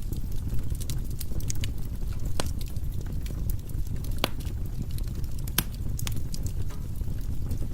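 Firewood burning in a fireplace: a steady low rumble of the fire with scattered sharp crackles and pops, three louder pops at about two and a half, four and five and a half seconds in.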